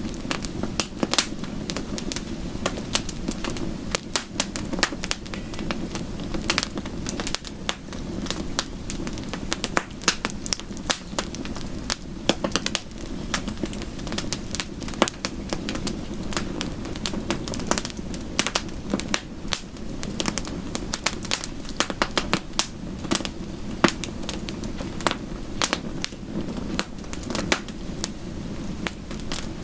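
Wood fire crackling, with frequent irregular sharp pops and snaps over a steady low rushing background of soft rain.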